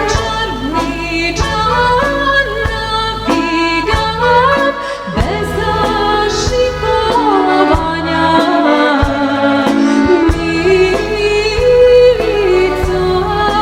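A woman singing a Serbian folk song to instrumental accompaniment with a steady beat.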